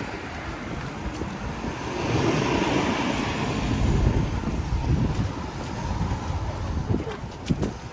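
Blizzard wind buffeting the microphone, mixed with street traffic noise. It swells louder for a few seconds in the middle, and a few light ticks come near the end.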